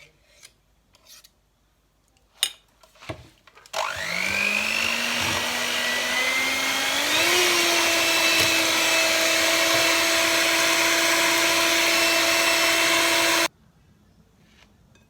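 Electric kitchen mixer whipping condensed milk, lemon juice and cream into a lemon cream filling. The motor starts about four seconds in with a rising whine, steps up to a higher speed partway through, runs steadily, and is switched off abruptly near the end. A couple of knocks come just before it starts.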